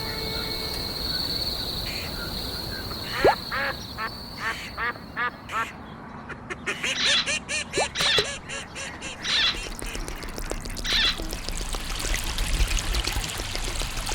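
A run of short, repeated animal calls, several a second, in two bursts, over a steady high tone during the first few seconds.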